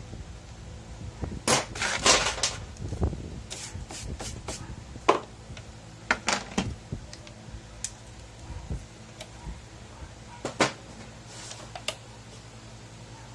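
Irregular clicks, light knocks and short rustles from small objects and tools being handled on a workbench. The busiest stretch is in the first half, with a few sharp taps near the end.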